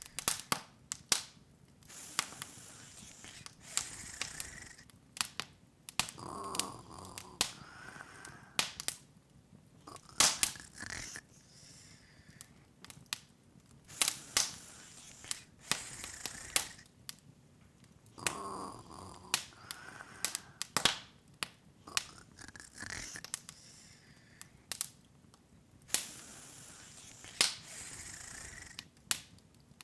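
Open wood fire crackling: irregular sharp pops and snaps, a few close together, over a soft hiss.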